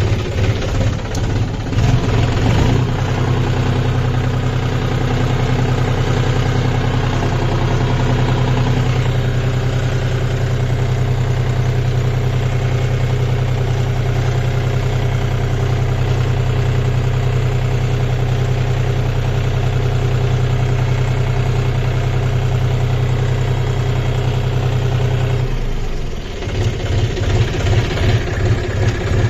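Kubota tractor's diesel engine running. It throbs in quick pulses for the first few seconds, settles into a steady, even drone, then goes back to pulsing near the end.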